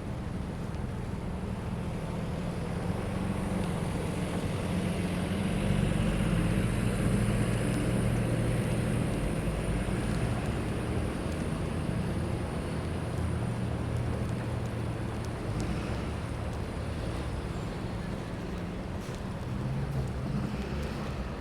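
City street ambience in a snowstorm: a low rumble of traffic mixed with wind, swelling a few seconds in and easing off again.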